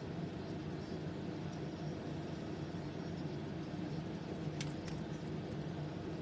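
Steady low background hum with a light hiss, and two short faint clicks a little past the middle.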